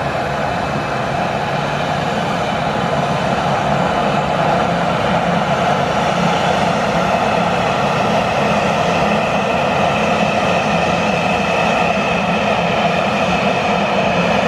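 Jet engines of a Boeing 737-800, CFM56-7B turbofans, running as the airliner moves nearby. The steady noise grows louder over the first few seconds, then holds.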